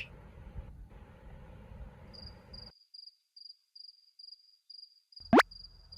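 Cricket chirping, a high chirp repeating about two to three times a second. A steady room hiss cuts off abruptly partway through, and a quick rising swoosh comes near the end.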